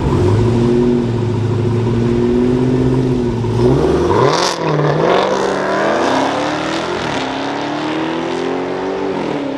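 Drag-racing car engines held at steady revs on the start line, then launching hard about three and a half seconds in. The engine pitch then climbs repeatedly, dropping briefly at each gear change as the cars accelerate down the strip.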